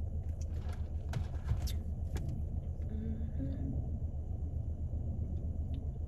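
Steady low rumble of a car on the road heard from inside the cabin, with a few faint clicks in the first couple of seconds.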